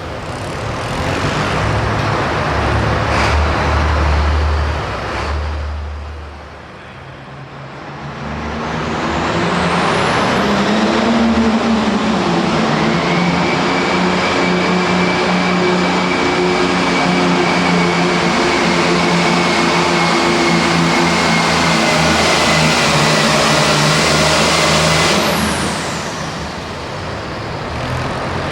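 Super farm pulling tractor's diesel engine running hard, dipping briefly, then held at full throttle for about fifteen seconds with a steady high whine over it, before easing off near the end.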